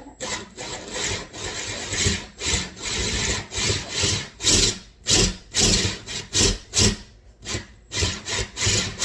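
Rhythmic rasping strokes, about two a second, of a tool cutting into hard coconut shell.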